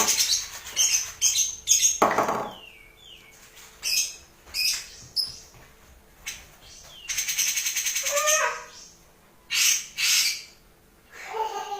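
Cucak jenggot (brown-cheeked bulbul) singing in dense, harsh bursts: rapid rattling chatters in short phrases with gaps between them. Lower warbling notes come in about eight seconds in and again near the end.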